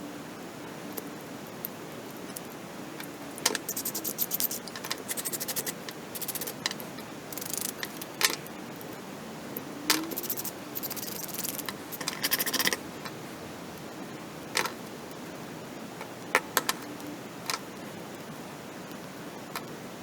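Small hard parts handled and worked by hand: several bursts of fast scraping and rattling with sharp clicks, then a few single clicks later on.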